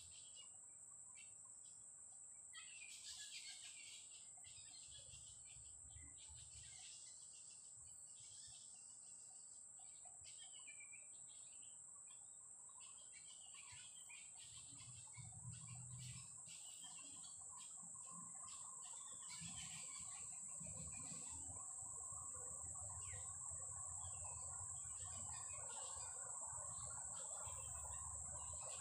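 Faint tropical bush ambience: a steady high-pitched insect drone with scattered bird chirps and calls over it. A lower chirring chorus builds in about halfway through.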